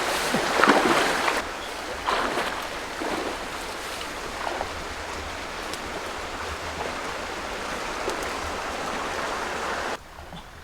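A steady rushing noise like flowing water, with a few short knocks in the first second or so. It cuts off abruptly near the end.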